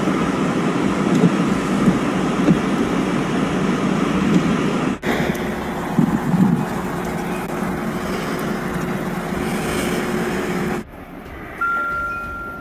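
Steady noise of vehicles on a road, in two stretches split by an abrupt cut about five seconds in; the second stretch carries a faint steady hum. It drops off sharply near the end.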